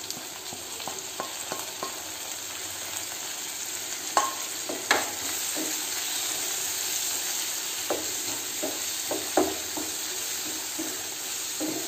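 Onions and freshly added chopped tomatoes sizzling steadily in oil in a non-stick frying pan, while a wooden spatula stirs them, scraping and knocking against the pan every so often.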